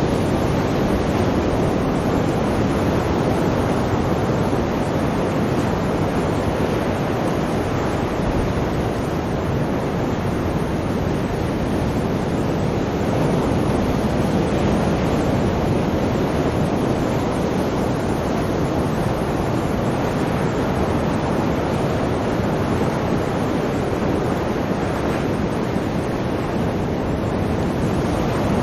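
Sea surf washing steadily, a continuous deep rush of water with no distinct single breakers standing out.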